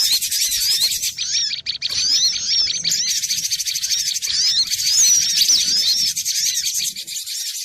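Cinereous tit (glatik batu) singing in a rapid, continuous stream of high, quick chirps, with a short break about a second and a half in.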